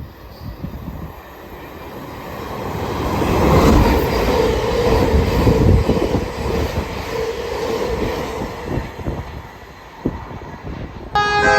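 Electric passenger train passing through the station, building up over a few seconds and then fading away, with a steady whine from the wheels or motors at its loudest.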